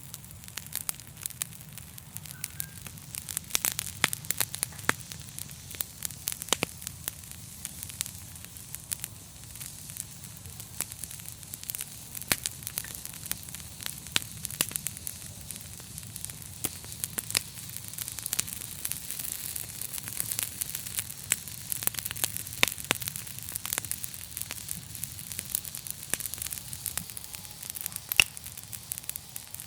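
Wood fire burning in a fireplace: a steady hiss with frequent sharp crackles and pops, several a second.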